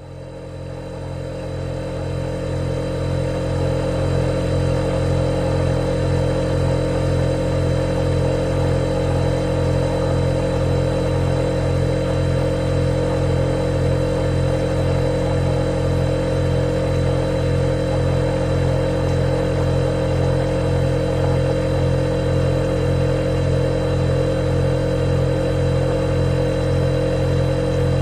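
Refrigerator running with a steady, unchanging hum and a thin high whine above it, fading in over the first few seconds.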